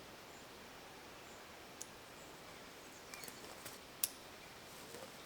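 Quiet forest ambience with a few faint, sharp clicks: a small one about two seconds in, a cluster a little after three seconds, and a louder one about four seconds in.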